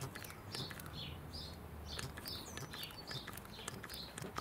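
Small birds chirping, short high calls repeating a few times a second, mixed with sharp clicks.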